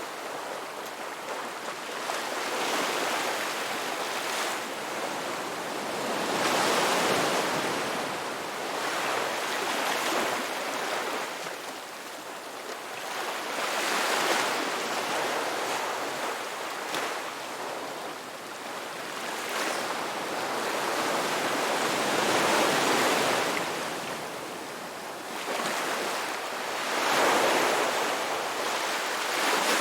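Ocean waves breaking and washing ashore, in repeated surges that swell and ebb every three to four seconds.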